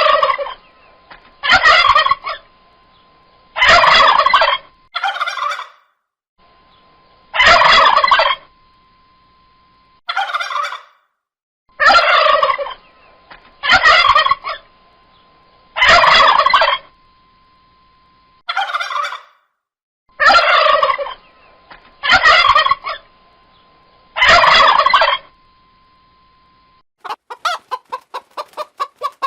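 Turkey gobbling over and over, about a dozen loud rattling gobbles spaced about two seconds apart; near the end a quick run of clucking begins.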